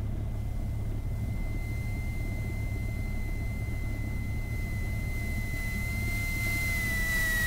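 The Cessna 172SP's four-cylinder Lycoming engine running steadily on the ground, a low drone with a thin steady whine over it. It grows louder in the last second or two.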